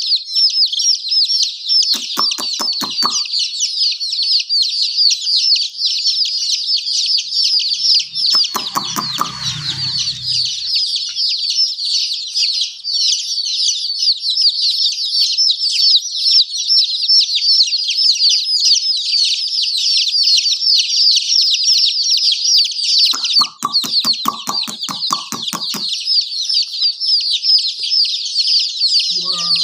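A brood of baby chicks peeping continuously in a dense, high-pitched chorus. A lower, rapid clucking cuts in twice, briefly about two seconds in and for a few seconds about 23 seconds in.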